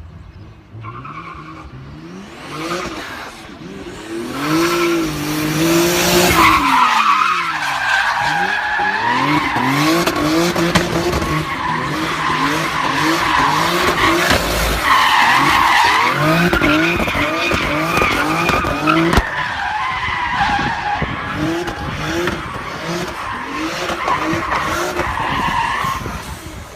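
Twin-turbocharged V6 engine of a Hyundai Genesis Coupe being driven hard, its pitch rising and falling over and over with throttle and shifts, with tyres squealing. It grows loud a few seconds in and stays loud until near the end.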